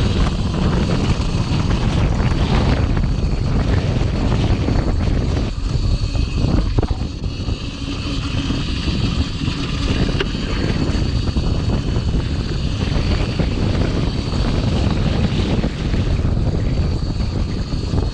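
Wind buffeting the microphone while a Cake Kalk OR electric dirt bike rides through snow, a loud, unsteady rumble. A thin, steady high whine runs under it, typical of the bike's electric motor.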